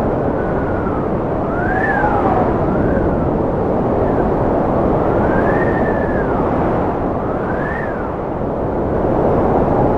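Strong wind blowing with a steady rushing noise and a whistling tone that rises and falls in pitch every couple of seconds.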